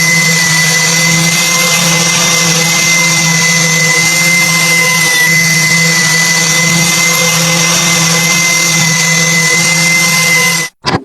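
A power tool's electric motor running at a steady speed with a high whine, cutting off abruptly near the end.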